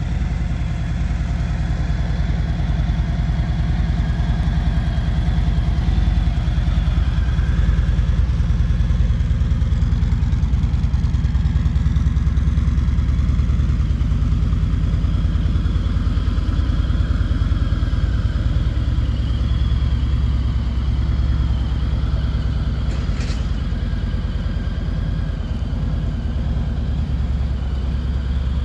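2018 Harley-Davidson Road King's Milwaukee-Eight V-twin engine idling steadily.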